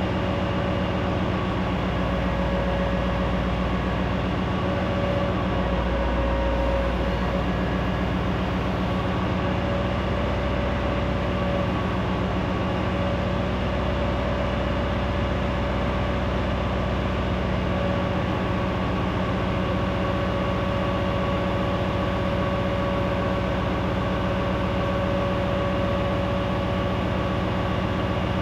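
Boom truck engine running steadily with a steady whine from its hydraulics as the boom is extended out.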